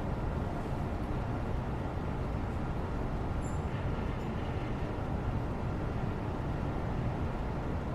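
Steady low rumbling background noise of a white-noise ambience track, even throughout, with a few faint light ticks about three and a half seconds in.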